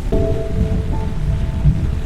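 Steady rain over a deep continuous rumble, with a few soft held tones coming in just after the start.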